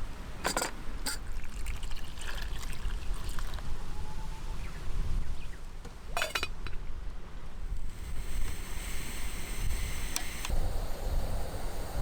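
A few sharp clinks and knocks of camp cookware, with a pouring or trickling liquid sound, over a steady low rumble of wind on the microphone.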